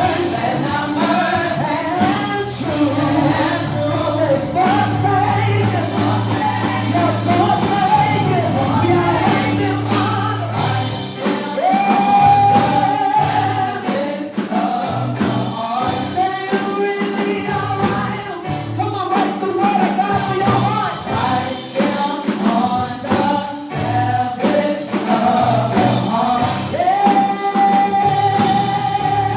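Live gospel worship music: singers and a choir singing over a band with a steady bass line, with long held notes about twelve seconds in and again near the end.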